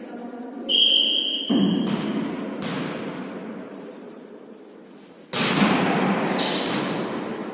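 Volleyball being struck and bouncing during volley tennis play: a few sharp thuds, one about a second and a half in and the loudest a little after five seconds, each echoing in a large hall. Before the first thud there is a brief steady high-pitched tone.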